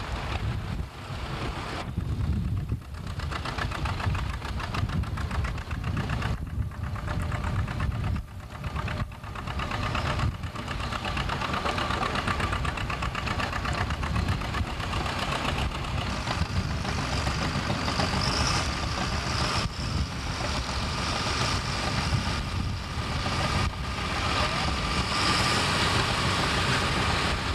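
Antique tractor engine running steadily with a fast, even beat.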